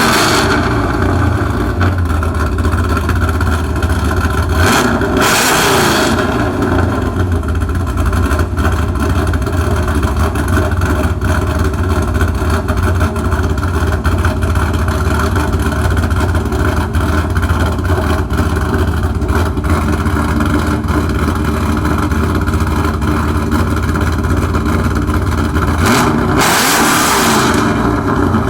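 2001 Camaro SS's LS1 V8 with an MS4 cam, long-tube headers, catless Y-pipe and SLP Loudmouth muffler, idling, then revved briefly about five seconds in and again near the end.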